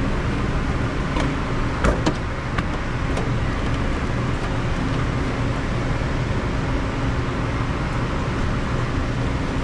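Steady machinery hum with a low drone, and a few sharp clicks and knocks about one to three seconds in.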